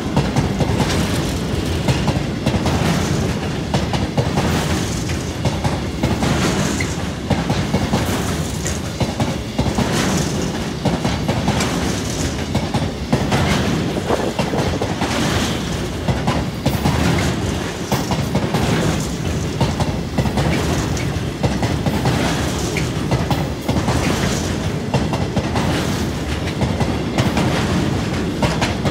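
Rumble of a long rake of loaded steel-carrying flat freight wagons rolling past close by, with wheels clacking over the track at irregular intervals of a second or two.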